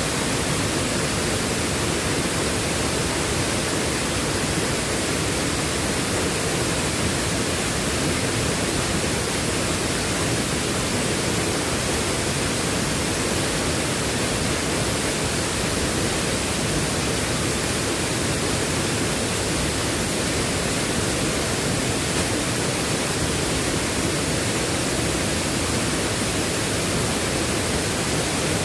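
Steady, unbroken rushing noise of water, as of heavy rain or fast floodwater, with no change in level.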